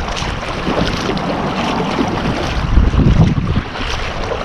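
Strong wind buffeting the microphone over a kayak being paddled, the paddle dipping and splashing in the water.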